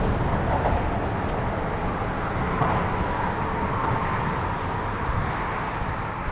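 Steady outdoor noise of highway traffic on the bridge, mixed with wind rumbling on the microphone, and a faint wavering whine running through it.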